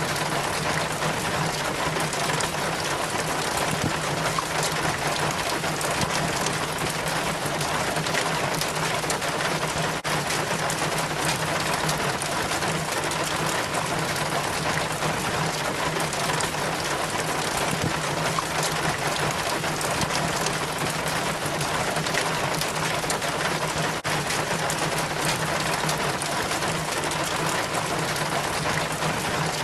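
Rainwater running and splashing down a rain chain from the gutter, mixed with falling rain: a steady, dense patter with a faint low hum underneath.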